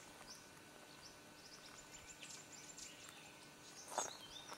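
Faint, repeated short high chirps of small forest birds, a few a second, with a lower sliding call near the end. A single sharp crunch sounds about four seconds in.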